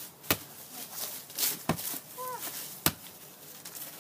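A volleyball being bumped back and forth off players' forearms: three sharp smacks, a little over a second apart.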